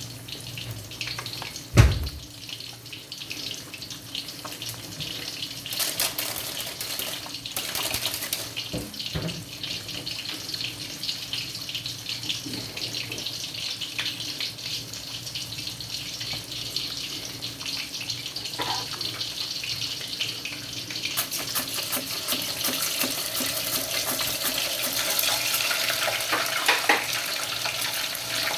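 Water running from a kitchen tap into the sink, a steady wash with small clatters, and one sharp knock about two seconds in; the flow gets louder and brighter about three quarters of the way through.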